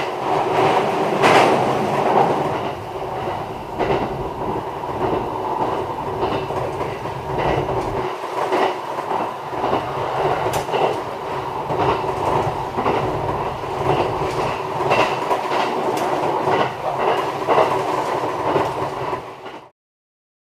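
Local electric train running along the track, heard from inside the rear cab: steady running noise with the wheels clicking over rail joints. The sound cuts off suddenly near the end.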